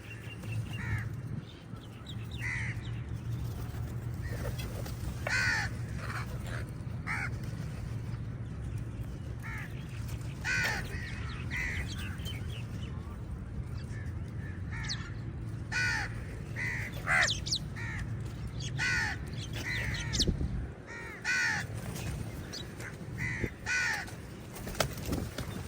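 Several crows cawing over and over, short harsh calls coming every second or so and overlapping, with a low steady hum underneath that drops out about four fifths of the way through.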